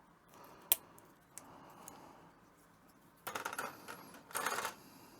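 Small hard plastic parts clicking and clattering as Gunpla kit pieces are handled: one sharp click about a second in, then two short rattling bursts near the end.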